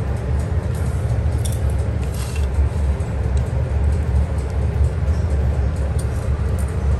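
A steady low rumbling hum, with a couple of faint light ticks about a second and a half and two seconds in.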